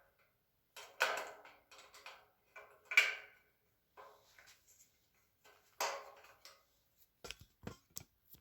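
Knocks, clatters and clicks of metal shelving bars and hardware being handled and fastened during assembly. The loudest knocks come about a second in, at three seconds and near six seconds, with a few short sharp clicks near the end.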